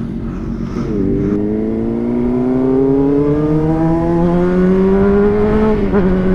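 Honda CBR600RR's inline-four engine accelerating under way, its pitch climbing steadily for about five seconds, then dropping near the end and holding steady, over wind rumble.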